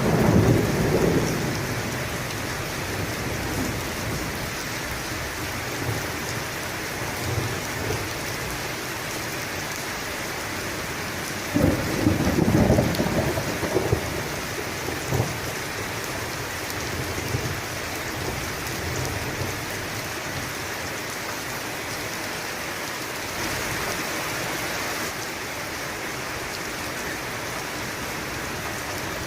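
Steady rain with rolling thunder. A rumble dies away in the first second or two, then a louder peal comes about twelve seconds in and rumbles on for a couple of seconds.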